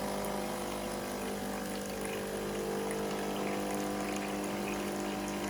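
Nespresso Gemini CS203 coffee machine's water pump running with a steady hum as it pushes rinse water through, the rinse stage that ends a descaling cycle.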